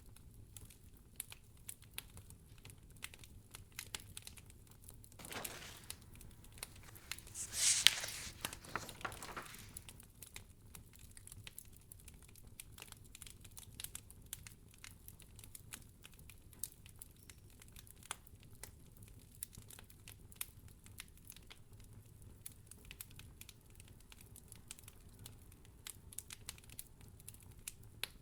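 Wood fire crackling in a fireplace: faint, scattered pops and snaps. Near the middle, a louder, hissy rustle swells and fades over about two seconds.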